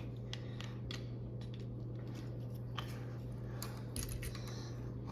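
Small, scattered clicks and brief rustles of plastic model-airliner parts being handled as a wing is fitted to the body, over a steady low hum.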